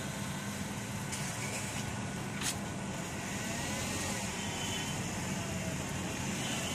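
A motor vehicle engine idling steadily, a low even hum, with one short click about two and a half seconds in.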